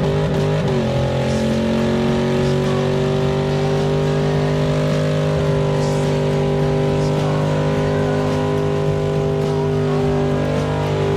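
LS V8 in an OBS Chevy truck held at constant high revs during a burnout. The engine note wavers for about the first second, then stays at one steady pitch.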